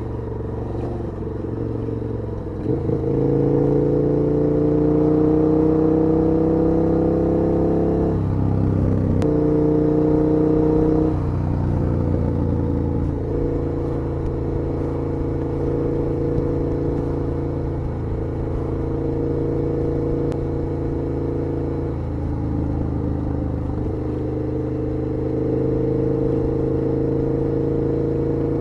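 KTM 1290 R's V-twin engine under way, heard from the rider's position. The engine picks up about three seconds in and its pitch climbs for several seconds. After a brief break around eight seconds, it settles into a steady cruise.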